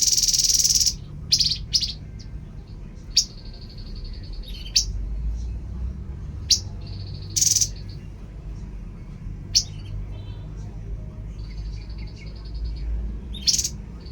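Small songbird calling: loud sharp chip notes repeated at irregular intervals, alternating with short even trills held at one high pitch, over a low background rumble.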